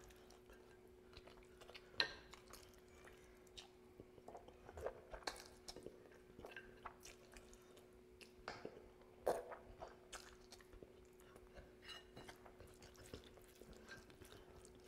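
Close-miked chewing of rice and curry, with wet mouth clicks and smacks; two sharper, louder smacks come about two seconds in and about nine seconds in. A faint steady hum runs underneath.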